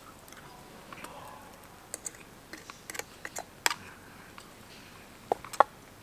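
Irregular light clicks and taps, a few to the second, with two sharper knocks close together near the end.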